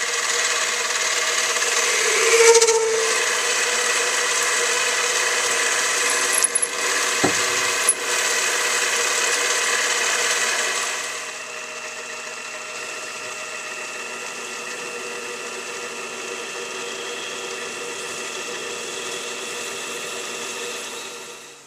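A power tool's motor running steadily with a whine made of several fixed tones, as a hole is reamed. About eleven seconds in it drops to a quieter steady run, with a few light clicks before that, and it stops near the end.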